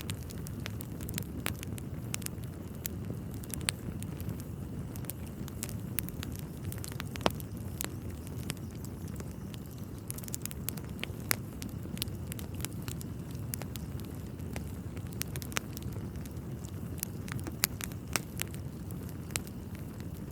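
Wood fire burning in a fireplace: a steady low rumble of flames with irregular crackles and a few louder pops from the burning logs.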